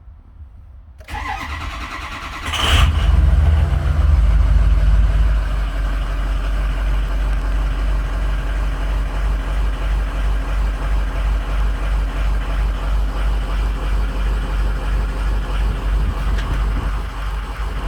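Ford 6.0 Power Stroke V8 turbodiesel cranking for about a second and a half, catching with a sudden rise in level, running fast briefly, then settling into a steady, pulsing idle. The engine has injectors in cylinders 5, 2 and 7 that a cylinder contribution test shows to be bad.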